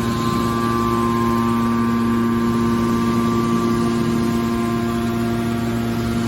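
Scrap car baler's hydraulic power unit running with a steady, even hum.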